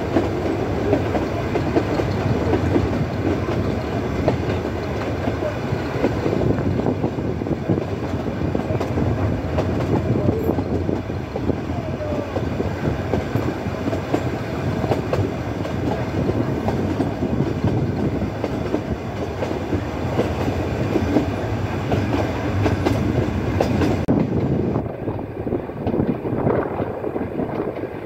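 Nilgiri Mountain Railway coaches running along the metre-gauge track, heard from an open coach window: a steady clatter of wheels and carriage bodies with many quick clicks over the rail joints.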